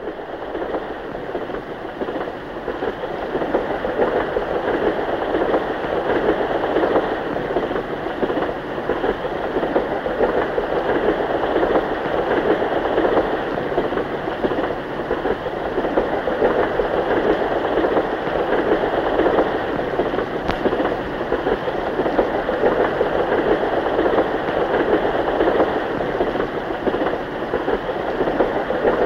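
Steady rumbling noise of a moving train, even and unbroken, with no distinct wheel-clack rhythm.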